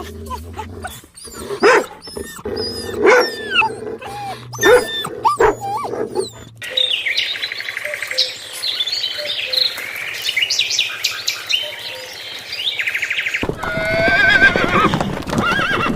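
A run of different animal calls, one clip after another, ending a couple of seconds from the end with a horse whinnying.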